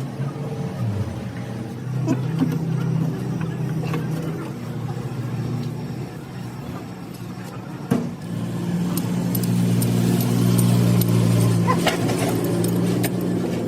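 Engine running steadily, its pitch shifting a few times, with scattered sharp clicks and one louder knock about eight seconds in.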